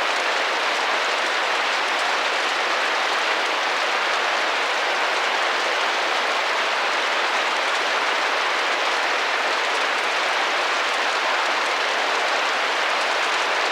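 Rain tapping steadily against a glass window, an even hiss of many drops with no single drop standing out.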